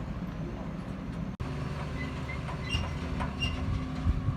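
Farm tractor diesel engine running steadily, with short high metallic squeaks and rattles from the machinery. The sound drops out for a split second about a third of the way in.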